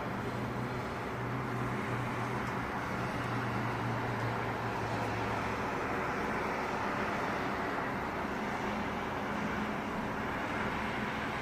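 Steady road traffic noise with a low engine hum that fades out about halfway through.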